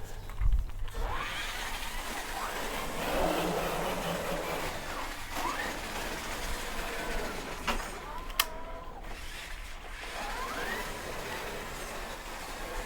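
Small electric motors of toy RC cars whirring, revving up in short rising whines several times, with a sharp click about eight seconds in.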